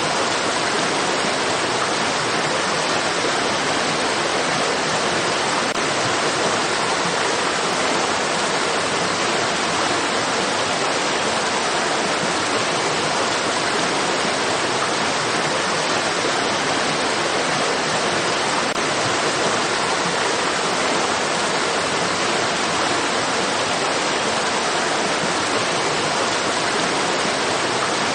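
Steady, even rush of flowing stream water, with no single splashes or changes.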